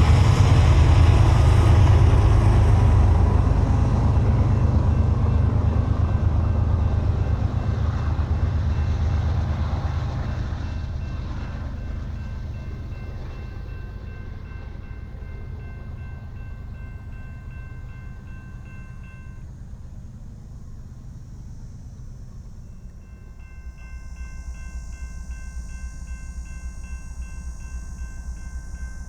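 BNSF freight train rumbling past the crossing, fading away over the first half. A grade-crossing warning bell rings from about halfway, breaks off briefly, then starts again in a quick regular beat as the rumble picks up again near the end.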